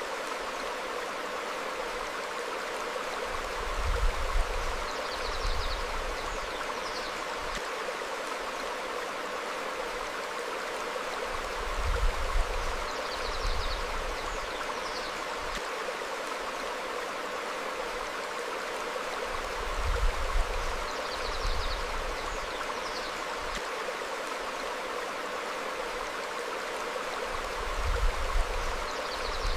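Stream flowing steadily over rocks. A low rumble swells every eight seconds or so, and each is followed by a couple of short, high bird chirps, repeating as a loop.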